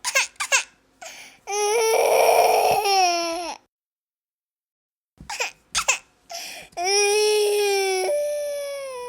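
A baby crying: a few short, catching breaths, then a long wail, and the same pattern again after a second and a half of complete silence.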